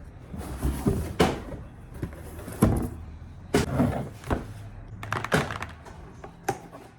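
Things being unpacked and handled: several separate sharp knocks and thuds, a second or so apart, with faint scuffing between them.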